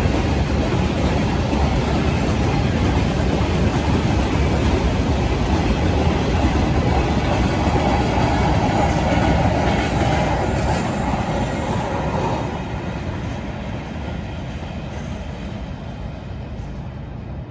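A train running past on the rails, a loud steady rumble of wheels and cars with some clickety-clack. About twelve seconds in it drops in loudness and begins to fade away.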